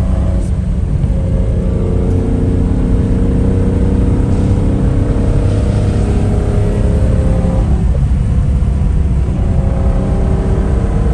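Citroën SM's Maserati V6 engine pulling the car along, its pitch climbing slowly over heavy low rumble. About eight seconds in the pitch drops and then starts climbing again.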